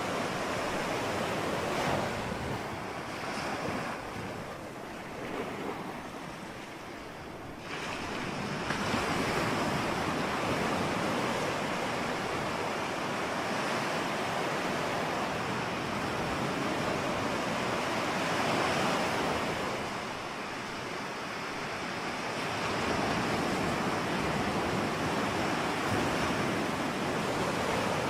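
Ocean surf: waves breaking and washing in a continuous rush, easing for a few seconds early on and then surging louder about eight seconds in. Some wind buffets the microphone.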